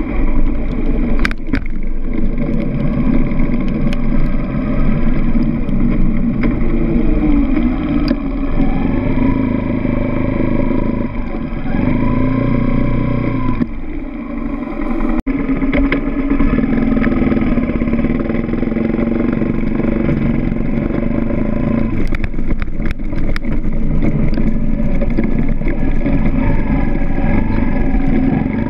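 Dirt bike engine running while riding, its pitch rising and falling with the throttle, easing off briefly about halfway through.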